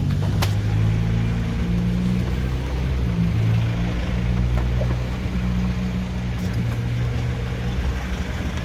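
An engine or motor running steadily with a low hum, and a short click about half a second in.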